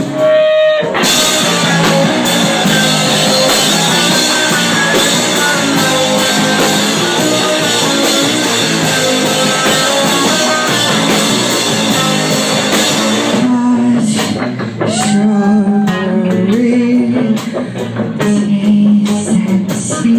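Rock band playing live with guitars and drum kit. About two-thirds of the way through the full band drops away, leaving mostly guitar notes with scattered hits.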